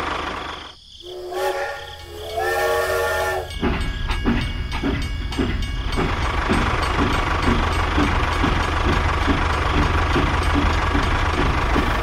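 Train whistle blowing twice in two held, multi-tone blasts, then a running train with a steady chugging rhythm over a low rumble.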